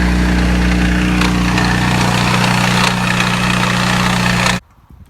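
An engine idling steadily and loudly, with an even low hum, cutting off suddenly about four and a half seconds in.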